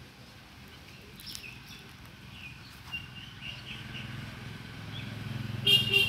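Birds chirping in scattered short, faint calls, then one loud, short, harsh bird call near the end. A low rumble builds underneath during the second half.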